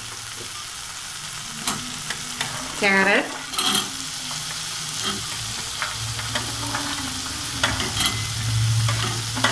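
Tomato-onion masala sizzling in a kadai, with a few knocks and clatters as diced carrots tumble in from a plate onto the cauliflower florets.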